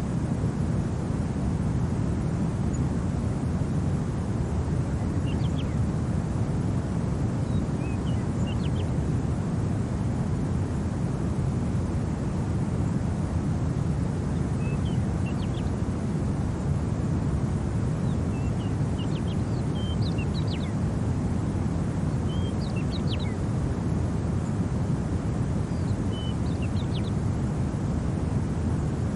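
Steady low wind rushing, with small birds chirping faintly in short scattered clusters of a few calls each, starting about five seconds in.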